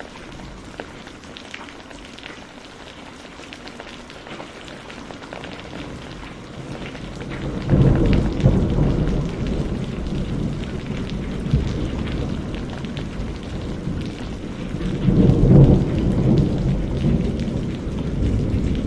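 Steady rain falling, with rolling thunder that rumbles in about seven seconds in and swells to a second, louder peak near the end.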